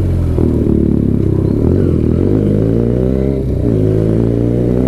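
Benelli TNT 300's 300 cc parallel-twin engine running through an Ixil full-system aftermarket exhaust while being ridden, its pitch rising and falling with the throttle, with a brief dip about three and a half seconds in.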